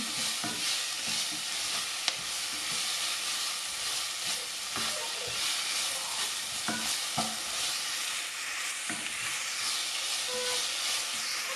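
Shallots and ginger-garlic paste sizzling in oil in a pressure-cooker pan, stirred with a spatula that scrapes and taps against the pan at irregular moments. The paste is being sautéed until its raw smell is gone.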